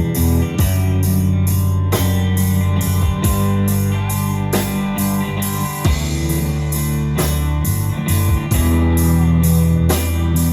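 Live band playing an instrumental break in a mid-tempo song: guitar over bass and drum kit, with regular drum hits.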